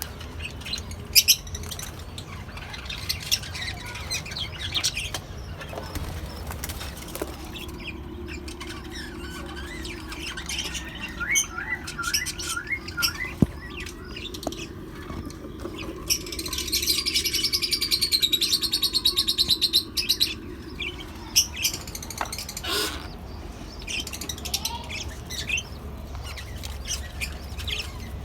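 A colony of lovebirds, cockatiels and budgerigars chirping and calling, with many short sharp chirps and a dense, fast run of chatter for about five seconds past the middle.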